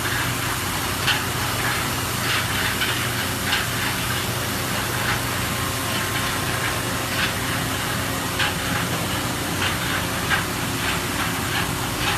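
Cincinnati Maxum 630 horizontal machining center running: a steady hiss over a low hum, with irregular short ticks every second or so.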